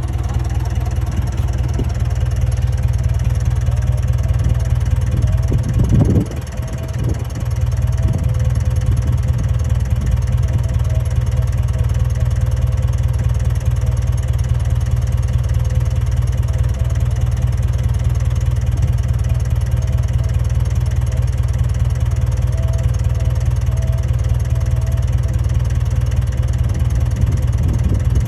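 Komatsu D31A bulldozer's diesel engine running steadily, with a brief louder surge about six seconds in.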